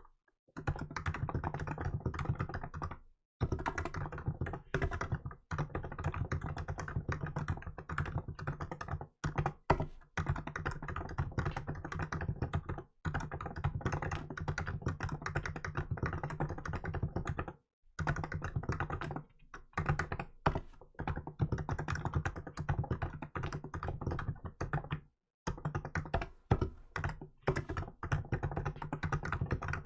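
Typing on a Hansung GK868B electrostatic capacitive (non-contact) keyboard with milk keycaps: a fast, steady run of keystrokes broken by brief pauses every few seconds.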